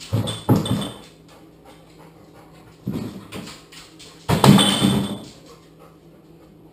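A yellow Labrador retriever vocalizing in four short bursts: two close together at the start, one about three seconds in, and the loudest, lasting about a second, a little after four seconds.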